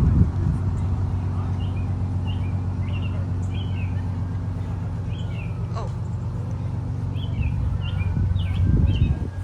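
An engine idling steadily with a low, even hum, while small birds chirp repeatedly.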